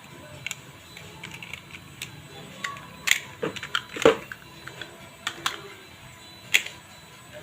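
Small plastic toy cars being handled, clicking and knocking together in irregular taps, with a louder knock about four seconds in.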